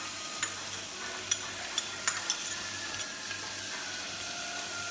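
Onions and ginger-garlic-green-chili paste sizzling steadily in hot oil in a pan. A spoon clicks against the pan several times in the first few seconds as the mixture is stirred.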